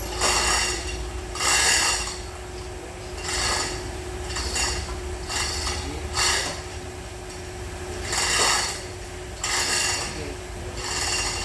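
Repeated rasping, rubbing strokes, about nine of them, unevenly spaced, over a steady low hum.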